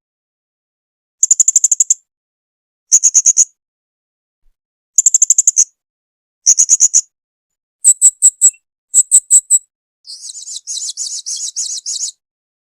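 Blue-crowned hanging parrot (serindit) calling: short bursts of rapid high-pitched notes, each about half a second long, repeated every second or two. Near the end the notes turn sharper and more separate, then run into a longer, harsher rasping trill of about two seconds.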